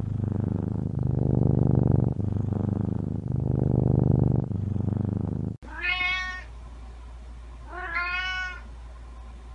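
Domestic cat purring loudly in rhythmic breath cycles; the purr stops abruptly about five and a half seconds in, and the cat then meows twice.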